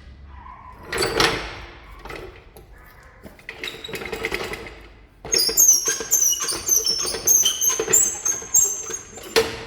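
Metal knocks and high squeaks from work on a pickup's front suspension with a floor jack under the control arm. A rush of noise comes about a second in and another around four seconds, then from about five seconds a quick run of knocks with high squeals, ending in a sharp knock.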